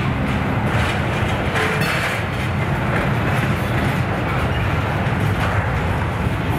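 Freight train running past: a steady low rumble of the train on the rails, with brief swells of higher-pitched noise about one and two seconds in.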